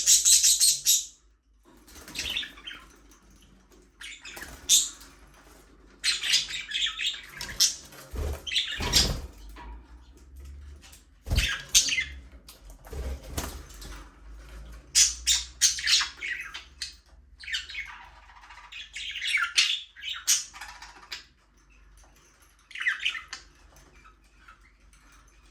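Pet budgerigars chirping and chattering in irregular bursts, with squawks and quick trains of clicking warble. A couple of low thumps come near the middle.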